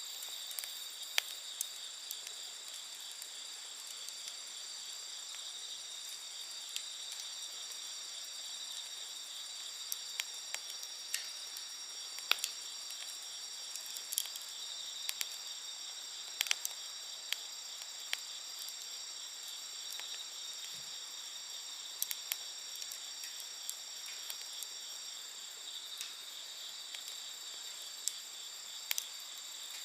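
Wood fire crackling with scattered sharp pops at irregular intervals, over a steady chorus of night insects chirring at several high pitches.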